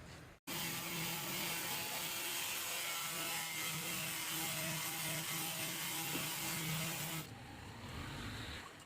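A small power tool's motor whirring steadily with a hiss, dropping to a quieter sound about seven seconds in.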